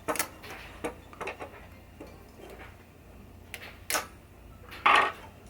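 Scattered sharp clicks and light taps of small metal parts (clips, washers, springs and posts of a pinball drop-target assembly) being handled and fitted, with a brief louder noise near the end.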